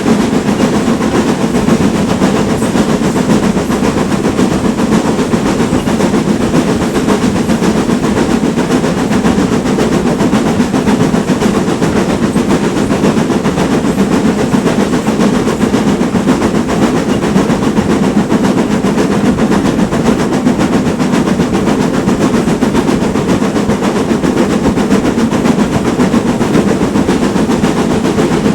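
GWR Manor-class steam locomotive running hard, its exhaust beating rapidly and steadily, mixed with the clatter of the train's wheels on the rails.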